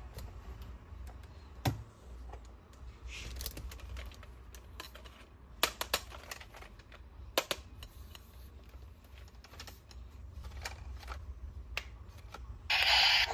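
Toys being handled and unpacked: irregular small clicks and taps, with a few sharper snaps. Music comes in near the end.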